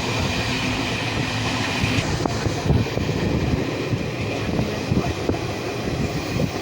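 Train running along the track with a steady rumble. Scattered short clicks begin about two seconds in.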